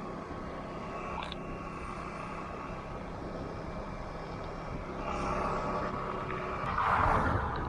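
A vehicle moving slowly: steady engine hum under road and wind noise, with a louder rush of noise swelling near the end.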